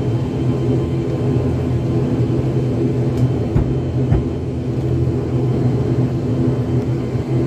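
Airliner cabin noise from inside the plane before takeoff: the aircraft's engines running with a steady low hum of several droning tones. Two brief knocks sound about three and a half and four seconds in.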